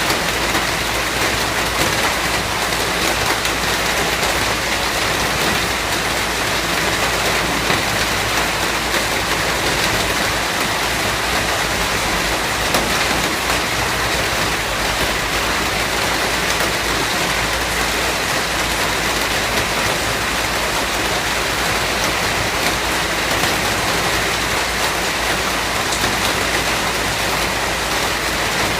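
Steady rain falling on a surface, a dense, even patter with no single drops standing out.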